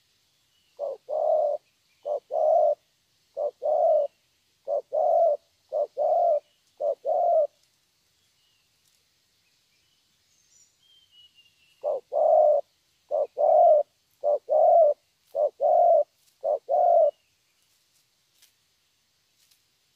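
Spotted dove cooing in two bouts of six paired coos, each pair a short note followed by a longer one, with a pause of about four seconds between bouts. This is the deep 'thổ' call style that Vietnamese keepers prize, here from a young wild-caught bird. Faint small-bird chirps are heard behind.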